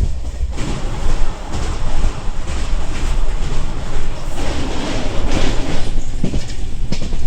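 Passenger train running, heard from inside the carriage: a steady low rumble, with a louder rushing noise from about half a second in and repeated sharp clicks.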